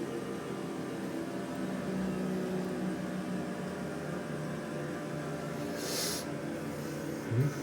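Steady electrical and mechanical hum of a CNC machine tool, holding several fixed tones. A short hiss comes about six seconds in, and a brief rising low tone near the end is the loudest moment.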